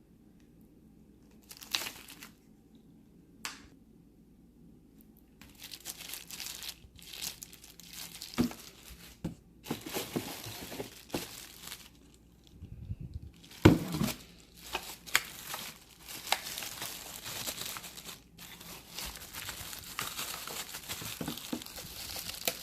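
Plastic and paper packaging crinkling and rustling in irregular bursts as the cordless vacuum is unpacked, with a sharp knock about halfway through.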